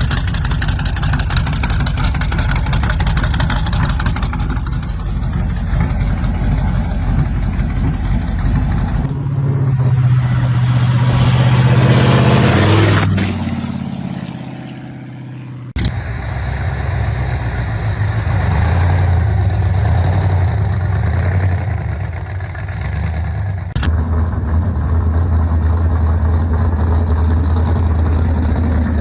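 Loud engines of straight-axle gasser cars running, mostly steady with a deep low note. About a third of the way in an engine revs up, holds briefly, then falls away. The sound changes abruptly a few times, as different cars follow one another.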